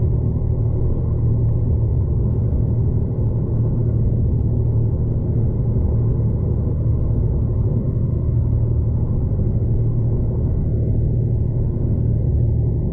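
Steady low rumble of a moving V/Line passenger train, heard from inside the carriage.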